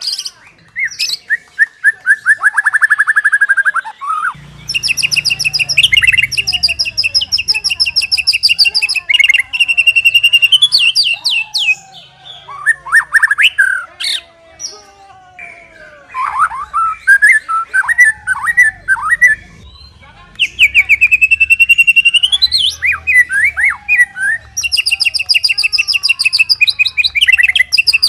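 White-rumped shama singing in long, rapid rattling trills, broken by short phrases of slurred whistles about midway.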